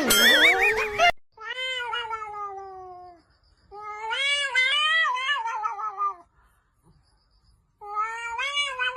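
A cat yowling: three long, drawn-out meows, each wavering and falling in pitch at its end, with short pauses between. A brief warbling sound comes just before the first yowl.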